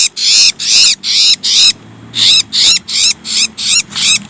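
A small songbird calling loudly and harshly, a run of high-pitched arching chirps at about three a second, with a brief break about halfway through.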